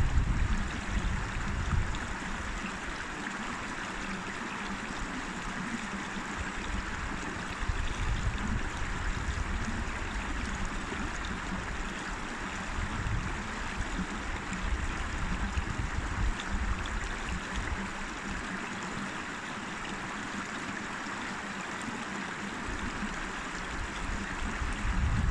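A river flowing and rushing steadily. Low wind rumble on the microphone comes and goes, strongest at the very start and again near the end.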